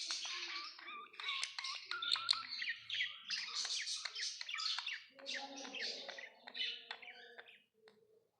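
Budgerigars chirping and warbling in quick, overlapping calls that die away near the end.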